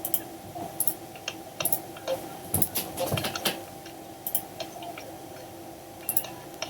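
Computer keyboard keys clicking in irregular, scattered taps, about a dozen over several seconds, over a faint steady hum.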